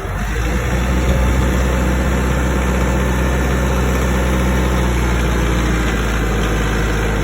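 McCormick X1.45 tractor's 45-horsepower diesel engine running steadily, getting a little louder in the first second.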